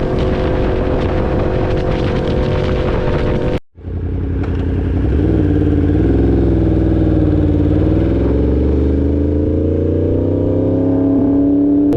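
2016 Yamaha R1's crossplane inline-four engine running steadily at speed with wind rush. The sound breaks off for an instant about three and a half seconds in; then the engine runs at a lower pitch and its pitch climbs slowly as the bike accelerates.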